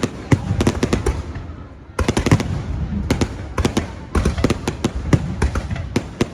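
Fireworks going off: a rapid, irregular string of sharp bangs and crackles, dying away briefly before a fresh volley starts suddenly about two seconds in.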